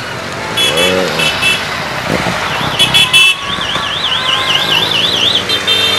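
Horns on departing motorcycles: a few short beeps, then a warbling alarm-like horn for about two seconds, then a steady horn blast near the end, over running engines.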